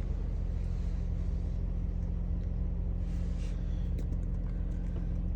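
An engine idling steadily, a low even rumble, with a faint click about four seconds in.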